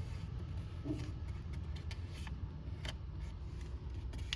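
Low steady background rumble with a few scattered sharp clicks and taps.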